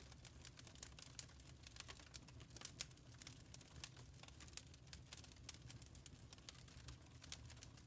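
Faint wood fire crackling: irregular sharp pops and snaps over a steady low rumble.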